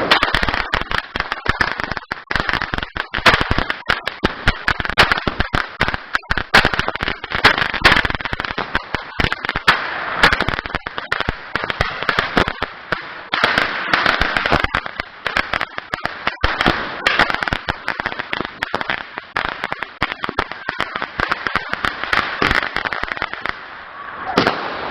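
A 500-gram fireworks cake (Saturday Night Special) going off: a dense, unbroken run of rapid bangs and crackling pops that stops shortly before the end.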